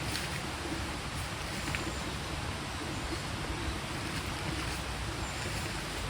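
A small stream flowing steadily, a continuous rushing murmur of water, with a couple of faint clicks.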